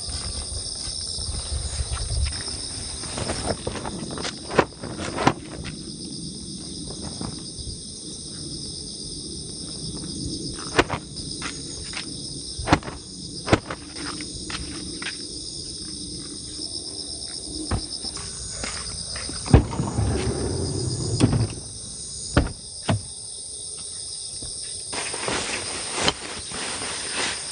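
Steady high-pitched insect chirring. Scattered sharp knocks and clicks come through it, the loudest about 20 s in.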